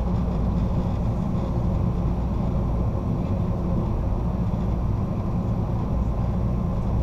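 Steady low rumble of the California Zephyr's passenger car rolling along the track, heard from inside the car.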